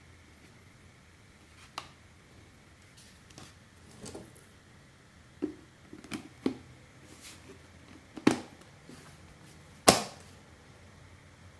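Scattered clicks and knocks from the parts of a Bosch GAS 18V-LI cordless vacuum cleaner being handled, about seven separate knocks with the loudest two near the end.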